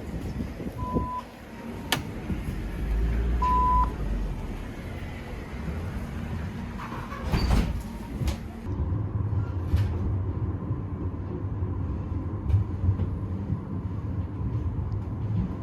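Two short electronic beeps, about a second in and again near four seconds, over the steady low rumble of a vehicle in motion, with a sharp click between them.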